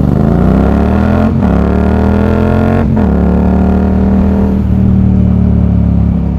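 Yamaha MT-07's CP2 parallel-twin engine, with an aftermarket exhaust, accelerating: the engine note climbs, drops with an upshift about a second and a half in, climbs again, drops with a second upshift about three seconds in, then holds steady.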